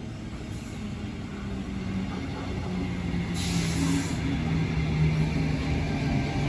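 Sydney Trains Tangara electric train pulling into the platform, a low hum and rumble of motors and wheels growing louder as it nears. A short hiss of air comes about three and a half seconds in.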